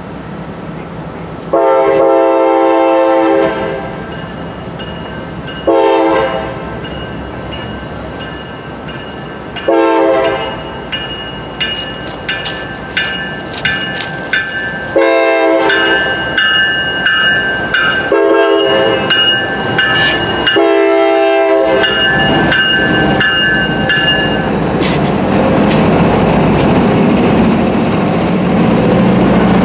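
Diesel freight locomotives approaching and sounding the horn in six long and short blasts, with a bell ringing through the middle stretch. In the last few seconds the locomotives pass close by, engines running, and the freight cars clatter over the rails.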